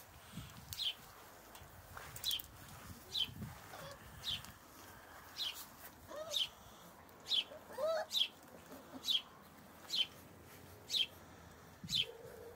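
A small bird calling over and over, a short, sharp, downward-sliding high note repeated about once a second.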